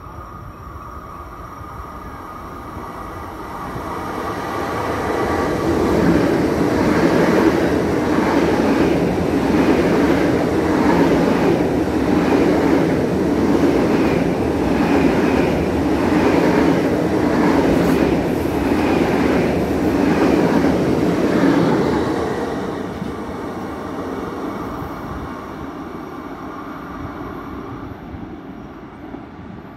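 DB ICE high-speed train passing through a station without stopping. The rail noise builds as it approaches and stays loud for about fifteen seconds, with a regular clatter of passing wheels, then fades as the train runs away.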